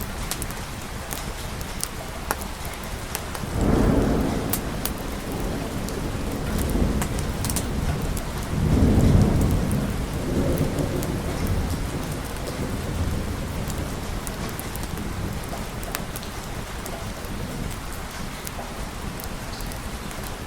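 Steady rain falling, with scattered sharp drop ticks, and thunder rumbling twice: once about three and a half seconds in, and again more loudly a few seconds later, dying away within a few seconds.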